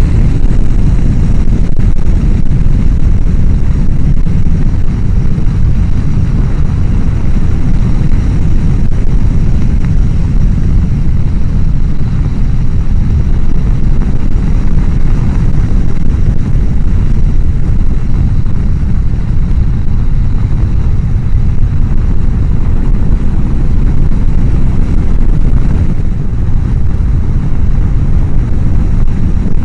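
Steady loud wind rumble on a helmet-mounted microphone while riding a motorcycle at speed; the mic sits behind the helmet's chin-bar air vent, so the air rush swamps the sound.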